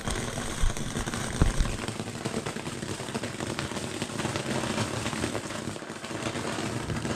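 Small Silver Rain firework fountain burning: a steady spraying hiss with scattered crackles, a few low thumps in the first couple of seconds.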